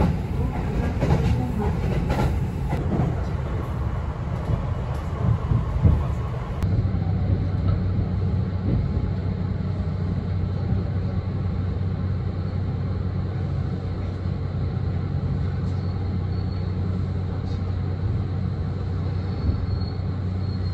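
Passenger train running, heard from inside the carriage: rumble of wheels on rail with frequent short clicks. About six or seven seconds in, the sound changes abruptly to a steadier low hum.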